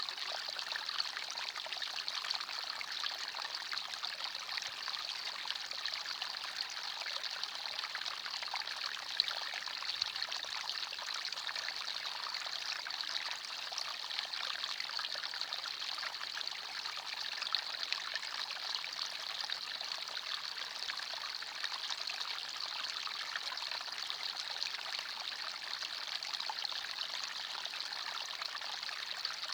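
Forest stream flowing steadily, water trickling and splashing over stones, with small splashes now and then.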